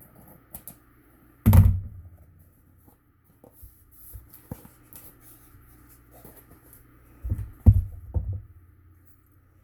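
Cardboard and craft materials being handled on a tabletop: one loud thump about a second and a half in, scattered light taps, then a quick run of knocks near the end, over a steady faint hum.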